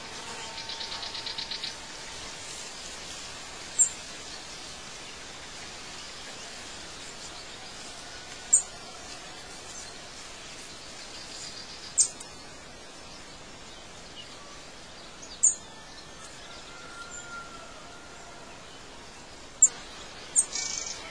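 Outdoor nature ambience: a bird gives short, sharp high chirps every three to four seconds, twice in quick succession near the end, over a steady background hiss. A fast, high trill runs through the first two seconds.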